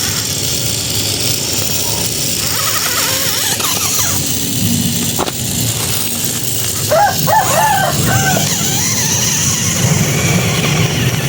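Small motor of a radio-controlled toy tractor running steadily, with a few short squeaky chirps about seven seconds in.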